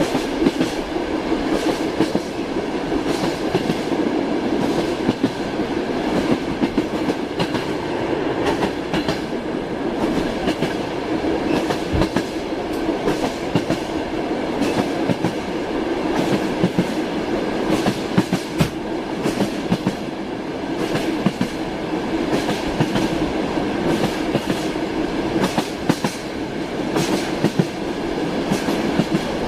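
Train running steadily, its wheels clacking over rail joints at irregular intervals above a continuous rumble.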